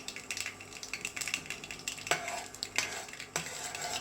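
Spoon stirring mustard and fenugreek seeds in a pan of hot sesame and mustard oil, with scattered crackling pops from the seeds and a few louder spoon knocks against the pan.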